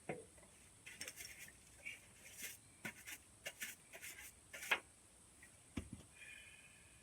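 Scattered light clicks, clinks and scrapes of parts and hand tools being handled on a work surface, followed by a single dull thump about six seconds in.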